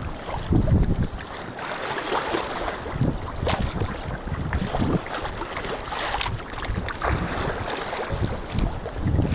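Wind buffeting the microphone over the wash of water around a sea kayak under way, with a few brief splashes.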